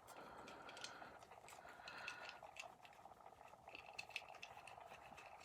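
Near silence: faint room tone with a few small clicks.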